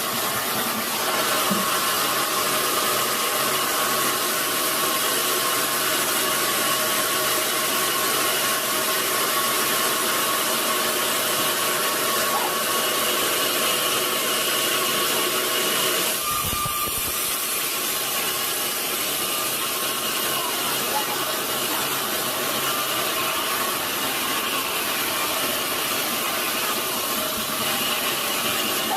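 Sawmill saw cutting steadily through a large log, a continuous loud noise with a faint steady whine. The sound shifts briefly about sixteen seconds in.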